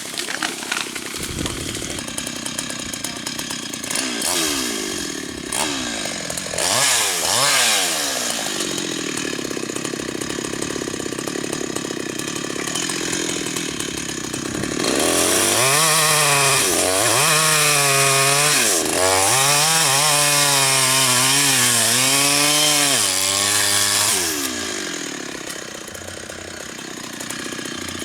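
Husqvarna chainsaw engine revving up and down a few times, then held at full throttle for about nine seconds with the pitch wavering as the chain cuts through rain-tree wood, then easing back down near the end.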